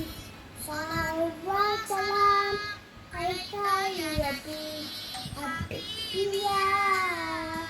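A child singing in a high voice, a melody of held notes in short phrases that slide between pitches.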